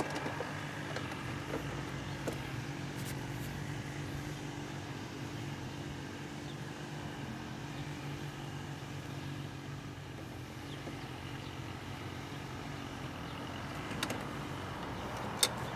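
Steady low mechanical hum with a few faint, scattered clicks.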